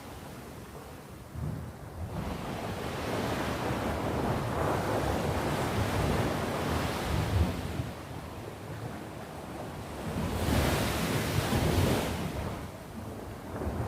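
Sea waves washing onto the shore, the surf rising and falling, with a louder wave breaking about ten seconds in.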